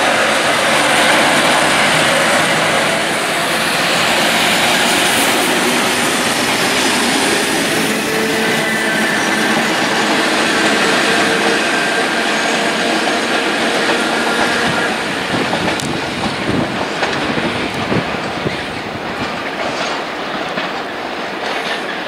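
Class 73 locomotives hauling an engineering train passing close: a loud, dense rush of locomotive and wheel noise that fades after about fifteen seconds into scattered clatter of wheels over rail joints and points as the train moves away.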